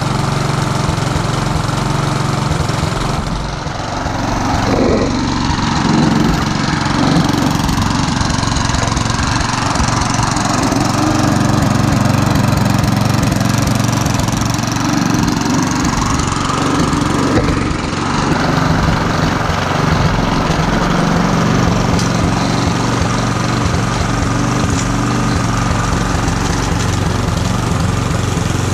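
A restored Mountfield Emblem rotary lawn mower's Briggs & Stratton Classic engine running steadily. The note dips briefly about three seconds in and again about eighteen seconds in.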